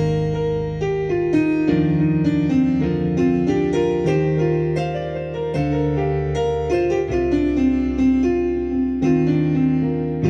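Roland Fantom FA76 synthesizer playing a piano patch thickened up from the stock piano: held low bass notes that change every few seconds under chords and a melody of single notes.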